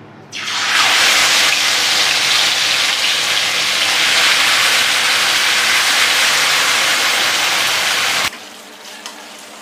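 Marinated chicken pieces frying in hot mustard oil: a loud, steady sizzle that starts about half a second in and cuts off suddenly near the end.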